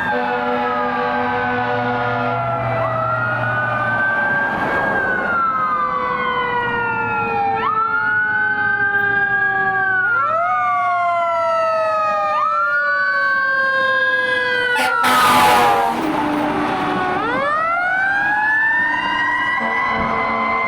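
Sirens of responding emergency vehicles, a fire engine among them: several wails overlap, repeatedly sweeping up and gliding slowly down. A short, loud blast comes about fifteen seconds in.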